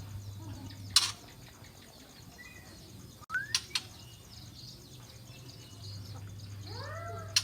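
Juvenile white-rumped shama (murai batu) calling: a sharp, loud call about a second in and a quick cluster of three around three and a half seconds, a short rising whistle, and arched whistled notes near the end. A low steady hum runs underneath.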